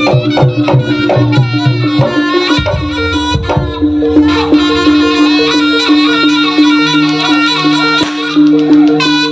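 Jaranan ensemble music: fast kendang drumming for the first couple of seconds, then a reedy slompret (Javanese shawm) melody over a steady repeating gong-chime note.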